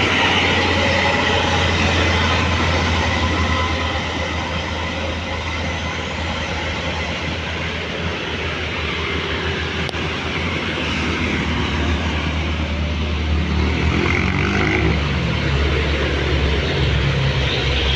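Heavy road traffic: a truck's diesel engine running under a steady low hum and tyre noise as vehicles pass, with an engine note climbing in steps in the last few seconds.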